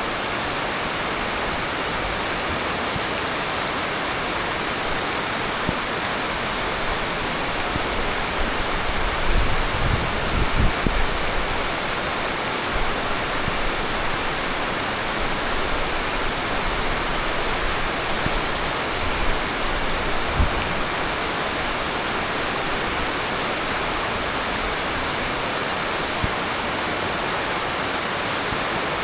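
Heavy tropical monsoon rain falling steadily, a dense, even hiss. A few low thumps rise out of it about a third of the way in and again around two-thirds of the way through.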